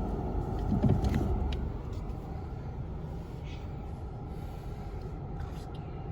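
Automatic car wash machinery rumbling steadily, heard from inside the car, with a few knocks about a second in.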